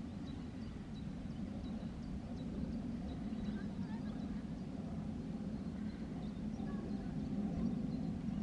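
Indistinct murmur of several people's voices talking at once, steady, with no words standing out.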